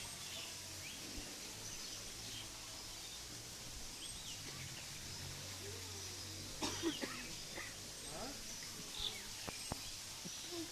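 Outdoor ambience with scattered short bird chirps over a steady low hum, and a few louder short calls or sounds about seven and nine seconds in.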